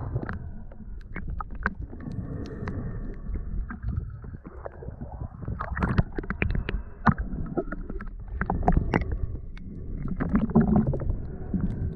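Underwater sound heard through a camera's waterproof housing while snorkelling: a muffled low rush of moving water and bubbles, with scattered sharp clicks and crackles.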